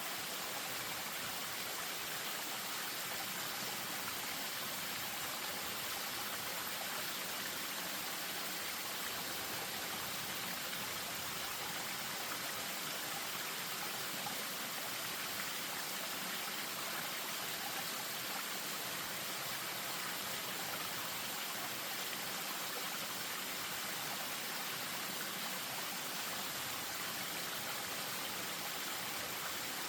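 Spring-fed stream running over a small waterfall: a steady, even rush of water.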